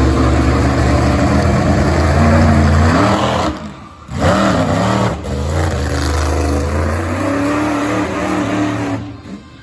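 Monster truck engine running loud at high revs. It cuts out briefly about three and a half seconds in, then comes back with revs rising and falling, and drops away again near the end.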